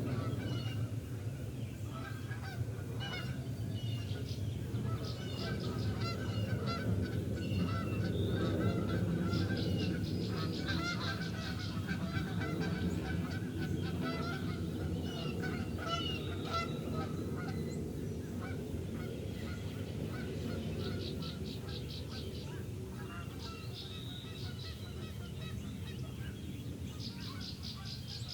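Geese honking repeatedly, with songbirds trilling in short bursts several times, over a steady low background noise.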